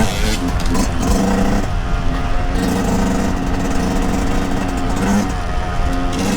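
2023 Yamaha YZ125's two-stroke single-cylinder engine running under way on a dirt trail, holding a fairly steady pitch through the middle with changes in revs about a second in and near the end.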